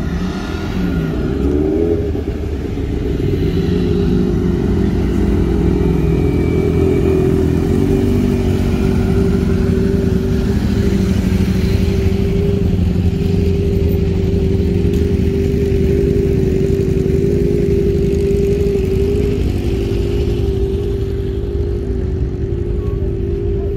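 Engine running with a rise and fall in pitch in the first few seconds, then holding a steady note.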